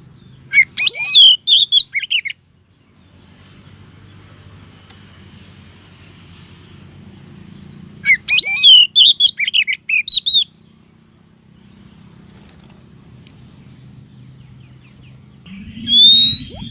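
Female Oriental magpie-robin call used as a lure for males: two bursts of quick, sharp chirps and whistles several seconds apart, then one rising whistle near the end, over a faint low hum.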